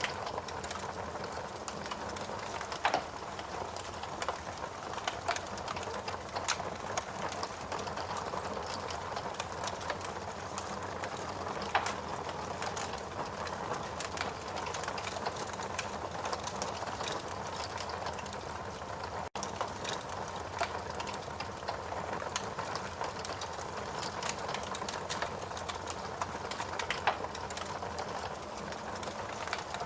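Wood fire in a fireplace burning with a steady hiss and constant crackling, broken by a few louder pops. The sound cuts out for an instant about two-thirds of the way through.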